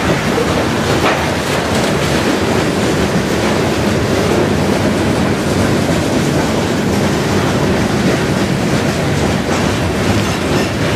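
Freight train of covered hopper and tank cars rolling past: a steady rumble of steel wheels on the rails, with a few clicks over rail joints.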